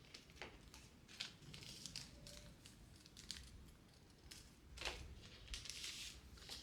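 Quiet close-up handling sounds: soft crinkling and rustling with a few light clicks, in irregular short bursts.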